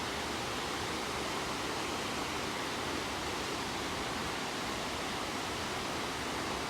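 Steady rushing of a waterfall, an even roar of falling water that holds at one level throughout.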